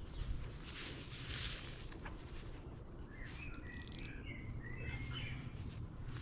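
A bird singing a quick run of short chirping notes from about three seconds in, over steady outdoor background noise. Near the start there is a brief rustling.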